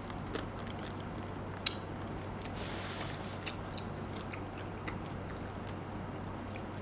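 Person chewing food, papaya salad and bamboo shoots, close to the microphone, with a couple of short sharp clicks, one near two seconds in and another near five.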